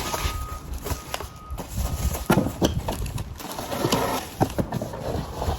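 Cardboard box and packaged vacuum parts being handled: irregular knocks, clicks and rustling as pieces are taken out.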